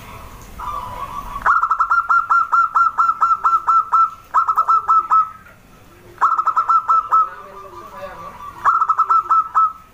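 Zebra dove (perkutut) singing in bursts of rapid staccato coos, about four or five notes a second. The first and longest burst starts about a second and a half in and is followed by three shorter bursts.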